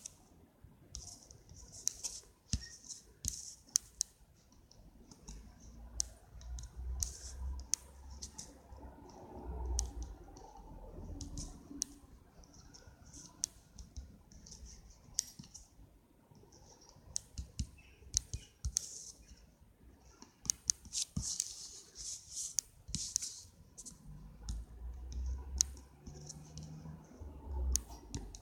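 Irregular light taps and clicks mixed with short scratchy rubbing strokes, the small handling sounds of someone colouring.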